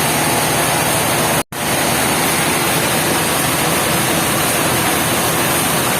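Loud, steady noise of sawmill machinery running, with a faint hum under it; it cuts out completely for an instant about one and a half seconds in.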